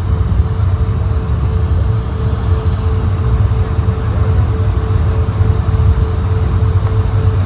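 Steady cabin noise inside an Airbus A220-100 airliner: a low rumble with an even hiss over it and a constant hum just under 500 Hz.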